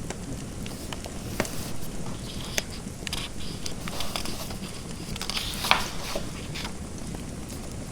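Fireplace crackling: scattered sharp pops and snaps over a steady hiss, busier and louder in the middle, with one loudest pop near the end.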